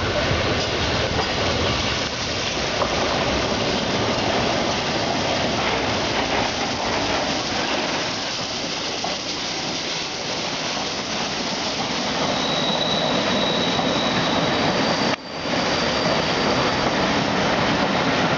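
Train hauled by the Peppercorn A1 steam locomotive Tornado rolling past, a steady rumble of wheels on rail. A thin, high wheel squeal rises about twelve seconds in and lasts a couple of seconds.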